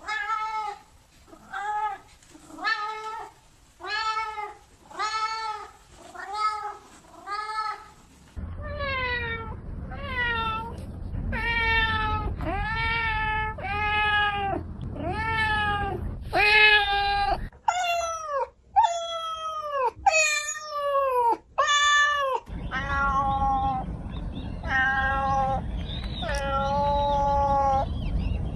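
Domestic cats meowing over and over. First comes a quick run of short, even meows about one every 0.7 seconds. Then, after abrupt changes in the background, come longer, louder meows, many sliding down in pitch, over a low rumble.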